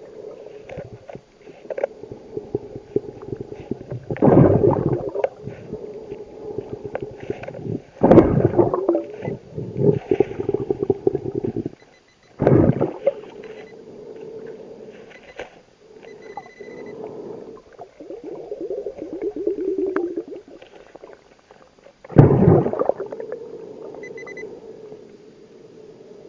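Scuba diver breathing through a regulator underwater: loud bursts of exhaled bubbles every few seconds over a steady bubbling rumble.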